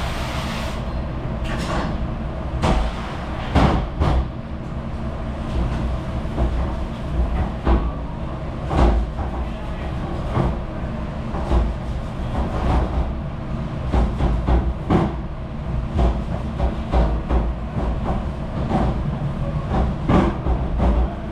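Dishes and racks clattering in repeated sharp knocks over the steady low rumble of a commercial dish machine running.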